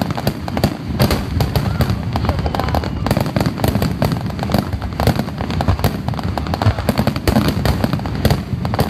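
Aerial firework shells bursting in a rapid, continuous barrage. Many sharp reports follow each other so closely that they merge over a steady low rumble, with no pause.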